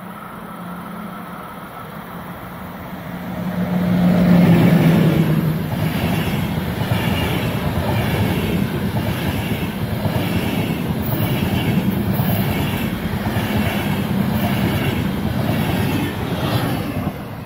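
EuroCity passenger train hauled by an ÖBB class 1144 electric locomotive passing at speed. A steady electric hum swells as the locomotive goes by about four seconds in. Then the coaches roll past with a regular wheel clatter about once a second, fading near the end.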